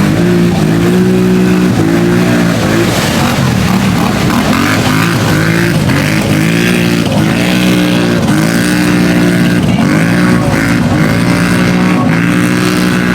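Off-road vehicle engines revving hard at full throttle, the pitch climbing and dropping again and again, with more than one engine running at once.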